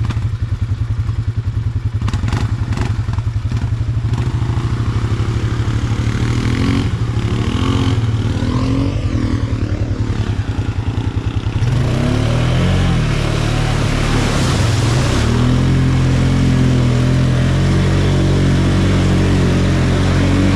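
ATV engine running with a fast, even pulse at low revs. About twelve seconds in it gets louder and the pitch rises and falls again and again as it is revved up and down.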